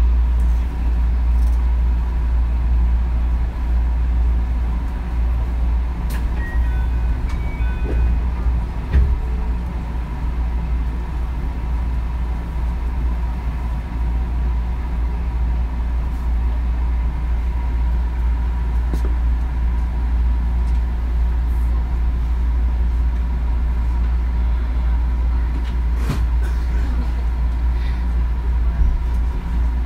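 Running sound inside a JR West 221 series electric train: a steady low rumble of the wheels and running gear on the track, with a thin steady tone and a few scattered clicks.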